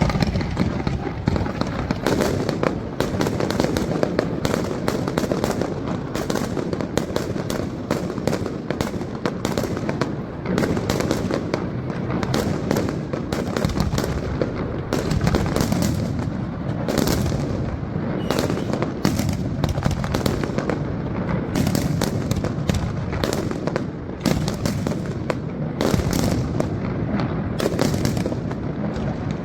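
Fireworks display: a dense, continuous barrage of bangs and crackles, many shells bursting in quick, irregular succession over a deep rumble.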